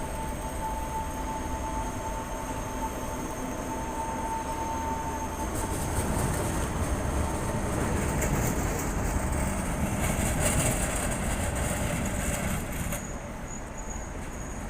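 Škoda T14 tram passing on street track, with a steady high tone for the first five seconds. Louder rolling noise follows until it drops away suddenly near the end.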